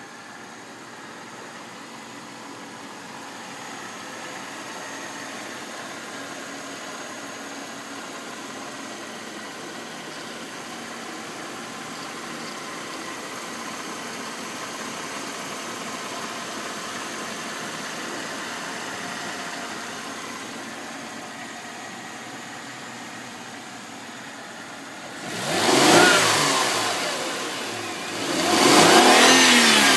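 Mercedes-Benz W221 S-Class engine idling steadily, then revved twice near the end, its pitch rising and falling back each time.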